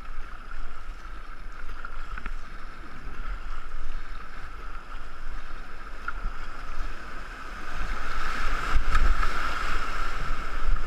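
Moving river water rushing and splashing around a racing canoe as it is paddled down a rapid, with wind buffeting the action-camera microphone in a low rumble. It grows louder about eight seconds in.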